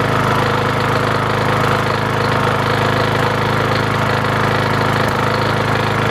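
A lawn mower's small primer-fed engine running steadily just after a hard cold start that took many pulls. It keeps an even, unchanging speed.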